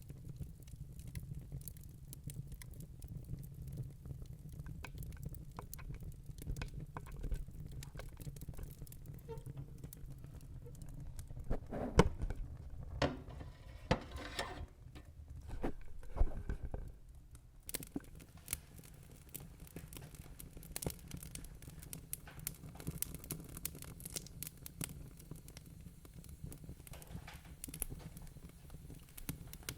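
Log fire crackling in a fireplace: irregular snaps and pops over a steady low rumble of the flames, with a busier run of louder pops about halfway through.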